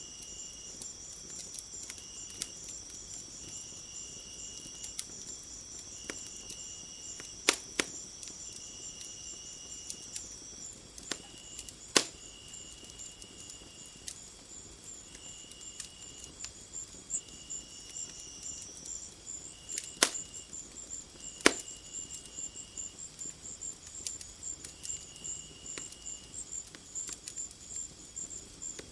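Crickets and other insects trilling steadily, with short chirps repeating every couple of seconds. A fireplace fire crackles underneath, with four sharp pops.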